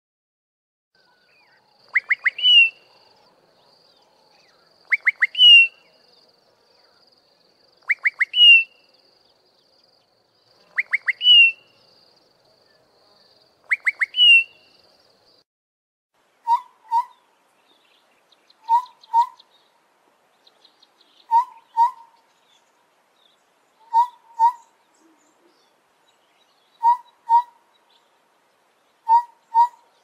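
First a songbird repeats a phrase five times, about every three seconds: three quick notes, then a short whistle that hooks upward. From about halfway a Southern Boubou gives paired low whistles, 'boo-boo', six times at intervals of about two and a half seconds.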